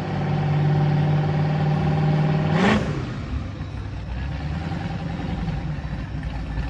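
A car engine running steadily, then a quick rev with a short loud burst about two and a half seconds in, after which it settles to a quieter, lower engine sound.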